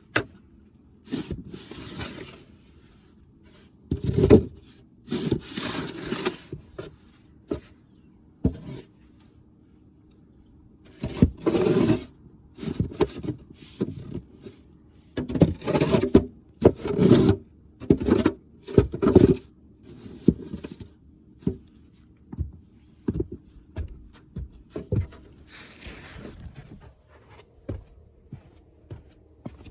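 Irregular scraping and rubbing sounds in short bursts of about a second, with quiet gaps between them.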